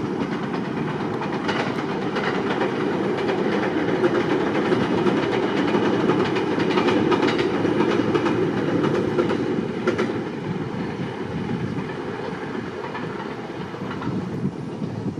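Train crossing a steel railway bridge: a steady rumble with rapid clattering wheel clicks over the rails. It is loudest a little past the middle and fades away over the last few seconds.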